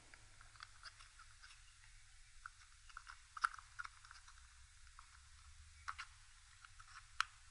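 Faint, scattered small clicks and light scraping of small metal parts being handled and fitted by hand on the engine's ignition, with a few sharper clicks spread through.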